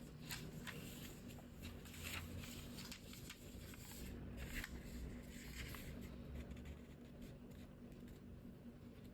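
A sheet of origami paper being folded and creased by hand: irregular faint rustles and crisp crinkles, busiest in the first half, over a low steady hum.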